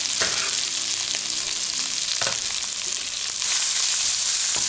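Chopped sun-dried tomatoes sizzling in butter with garlic in a non-stick frying pan, a wooden spatula stirring them with a few short knocks against the pan. The sizzle grows louder about three and a half seconds in.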